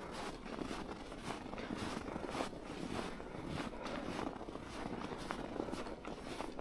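Footsteps in snow at a steady walking pace, about two steps a second.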